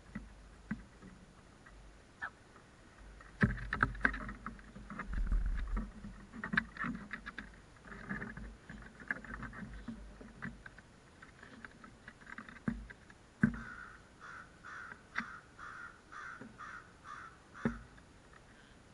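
Crows calling, with a quick run of short repeated caws, about two a second, in the last few seconds, among scattered sharp knocks and bursts of wind on the microphone.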